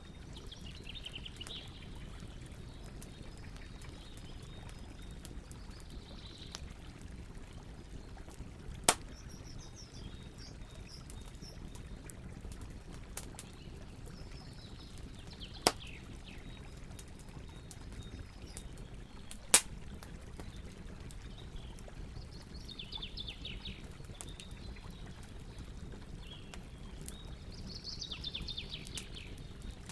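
Campfire crackling with faint ticks and three sharp pops through the middle, over the steady rush of a flowing river. Birds chirp every few seconds in short falling trills.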